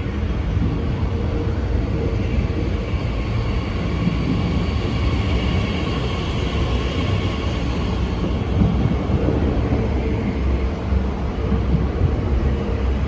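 A train running through the station: a steady low rumble with a faint whine that swells in the middle and then fades.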